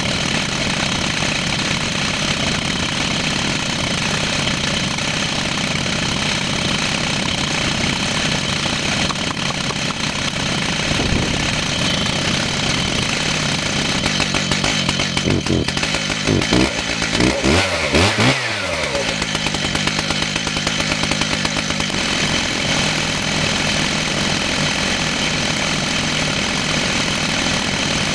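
Two-stroke chainsaw running steadily as it rips lengthwise through a red oak log in a chainsaw mill. Between about 15 and 19 seconds in, the engine speed drops and rises several times before settling again.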